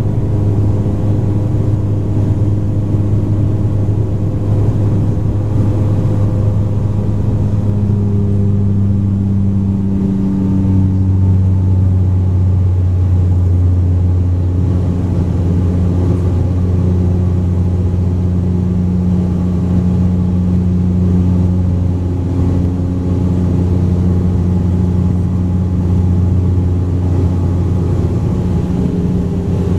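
Bombardier Q400's twin turboprops droning steadily, heard inside the passenger cabin during the climb after takeoff: a deep, even propeller hum over a constant rush of air. The hum drops slightly in pitch about ten seconds in.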